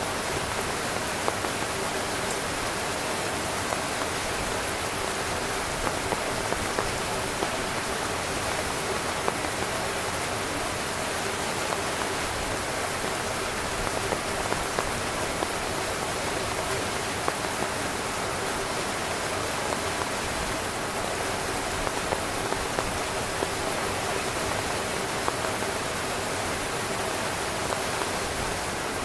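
Heavy rain falling on a tent, a steady hiss of rain with many small drop impacts pattering on the fabric.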